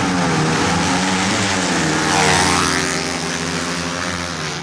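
Race-tuned Yamaha Jupiter MX motorcycle engine running at high revs with a buzzing note whose pitch wavers slightly. It grows loudest a little past two seconds in, then eases off.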